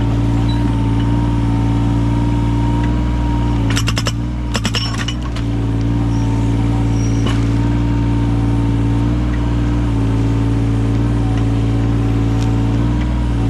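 Yanmar 017 mini excavator's diesel engine running steadily. About four seconds in, a quick run of sharp cracks and knocks lasts about a second and a half, as the axe chisel attachment strikes a log and splits it.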